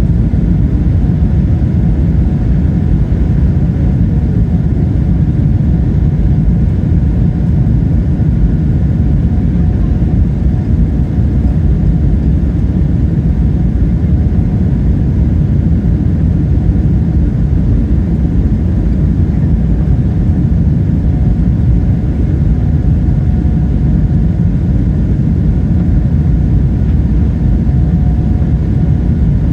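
Steady low roar of a Boeing 777-300ER's GE90-115B engines and airflow, heard inside the cabin, with a faint steady whine over it.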